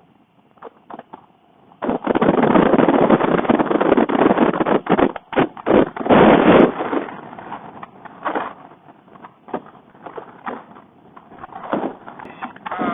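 Wind noise on the microphone of a motorcycle ridden hard at speed. It comes in loud, rough gusts for about five seconds starting two seconds in, then in shorter buffets.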